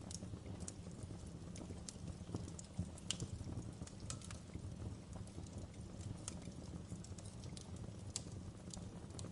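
Wood fire burning in a fireplace: a low steady rumble with irregular sharp crackles and pops.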